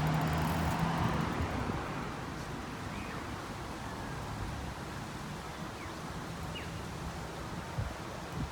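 Steady outdoor background noise, a hiss of wind and distant traffic, with a low hum that fades out in the first second or so and a few faint short chirps.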